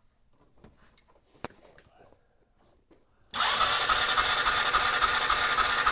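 Polaris Ranger engine cranked by its electric starter from about three seconds in, a steady whirring churn that turns over without firing: the spark test with the original ignition coil gives no spark. A few light clicks come before it.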